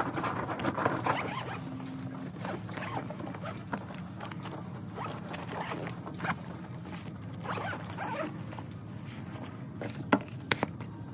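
A run of short scratchy rasps and rustles, densest in the first two seconds and again near the end, over a steady low hum.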